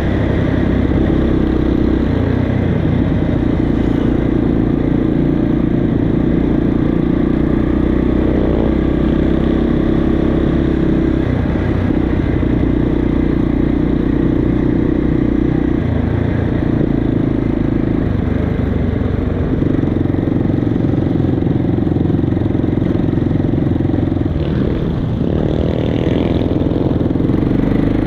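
Motorcycle engine running steadily, its note shifting a little now and then.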